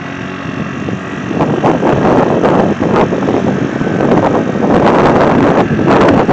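Wind buffeting the microphone in uneven gusts, growing louder about a second in.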